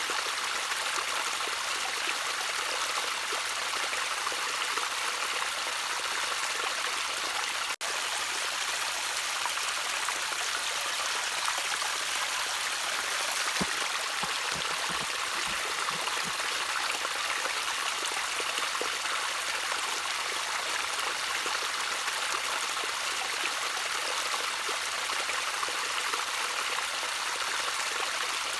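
Small stream of water trickling and burbling steadily, with a momentary break in the sound about eight seconds in.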